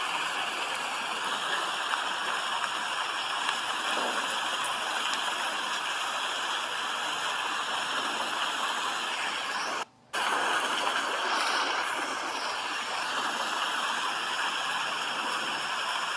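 Steady rain noise, an even hiss, that cuts out for a split second about ten seconds in before resuming unchanged.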